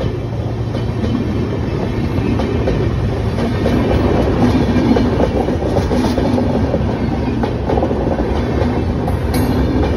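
Passenger train coaches rolling past, a steady loud rumble of steel wheels on the rails with faint clicks at the rail joints.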